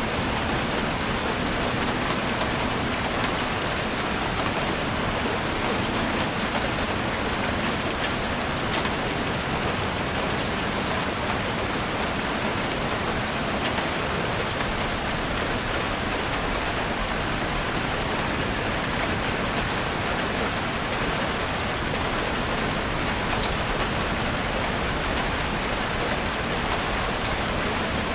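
Heavy rain drumming steadily on a chalet roof: a dense, even hiss of drops with many small individual drop ticks.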